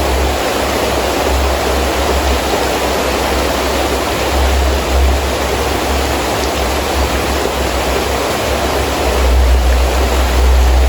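Heavy rain falling steadily with strong wind gusting; the low wind rumble swells about halfway through and again near the end.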